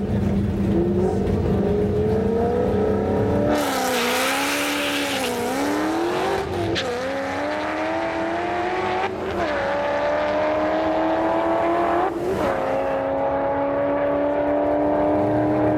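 Shelby GT500's supercharged V8 at full throttle on a drag-strip launch: the revs build, then a loud rush of noise as it leaves the line about three and a half seconds in. The engine pitch climbs and drops back at three upshifts as the car pulls away down the track.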